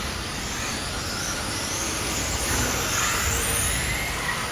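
Electric RC cars racing, their motors giving off a high whine that rises and falls in pitch as they speed up and slow down, over a steady rush of running noise.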